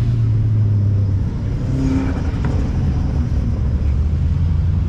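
A car engine running steadily while driving, a low drone whose pitch drops a little about a second in.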